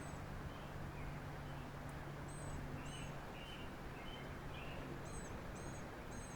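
Small songbirds calling over and over: short, very high paired notes and a run of lower chirps, over a steady low hum.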